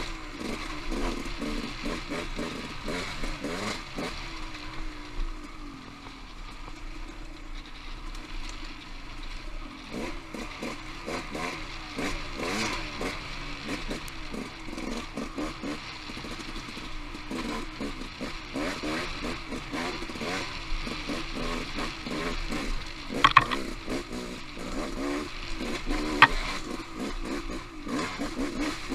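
Off-road motorcycle engine revving up and down as the bike rides rocky singletrack, with steady clatter from the bike and rocks. Two sharp metallic clanks stand out in the last third.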